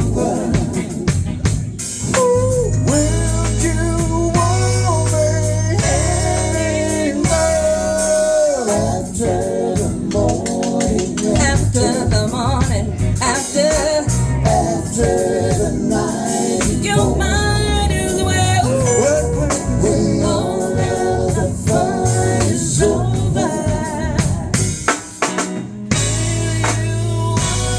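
A song with a solo voice singing a melody over a band backing of bass, drums and tambourine.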